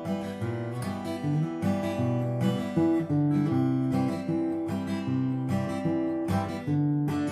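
Acoustic guitar strummed about twice a second, playing an instrumental break that moves through E minor, C major and D major chords.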